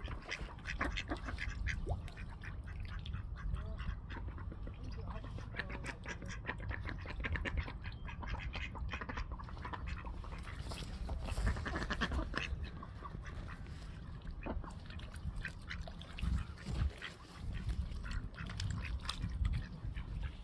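Ducks quacking as they feed and squabble over food, with many short clicks throughout.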